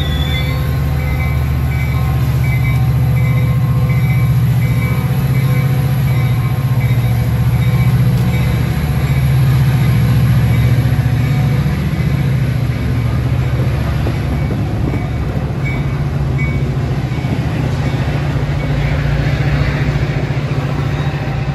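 Metra bilevel commuter train pulling out past the platform: a steady low rumble of the stainless-steel cars rolling by.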